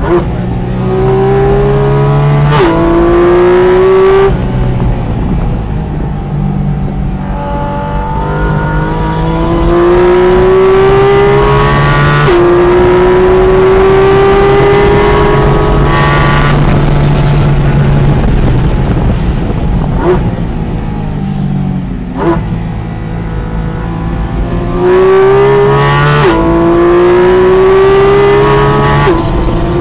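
Sports car engine heard from the cockpit on a race track, pulling hard with its pitch climbing and dropping sharply at each upshift, once about two and a half seconds in and again about twelve seconds in. It then eases off and falls in pitch while slowing for a corner, with a couple of sharp clicks. Near the end it pulls hard again through two quick upshifts.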